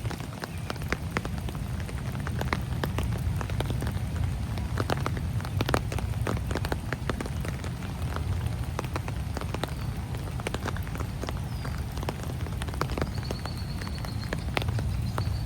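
Rain falling, with many separate drops ticking close by over a steady low rumble. A bird gives a short wavering high call near the end, with fainter calls a little before.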